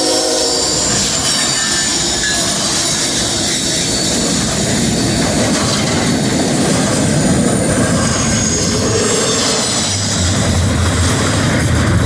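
Freight train rolling past at close range: a steady rumble of wheels on rail with thin, high-pitched wheel squeal. The locomotive horn cuts off right at the start, and a deeper drone comes in near the end.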